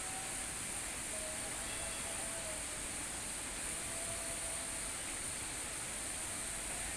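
Steady rain, an even hiss with no breaks, with a few faint brief tones in the background.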